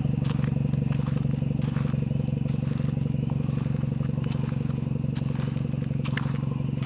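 Vehicle engine idling steadily, an even low hum, with a few faint clicks.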